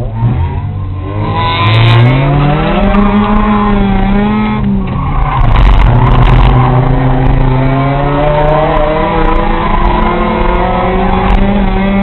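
Race car engine accelerating hard, its pitch climbing, then dropping sharply about five seconds in at a gear change before climbing steadily again.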